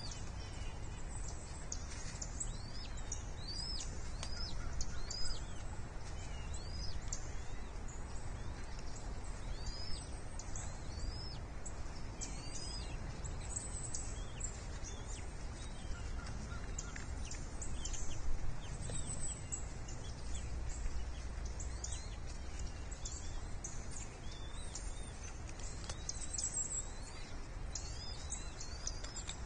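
Bird chirps, short high arching notes repeated many times, over a steady low rumble picked up by the nest-cam microphone.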